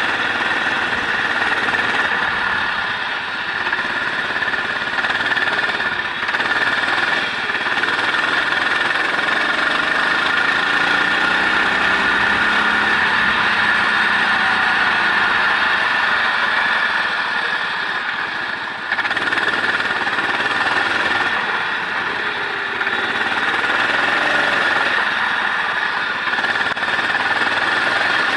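A racing vehicle's engine running hard on a wet circuit, under steady wind and road noise. The engine note rises and falls, with brief drops that fit gear changes or braking.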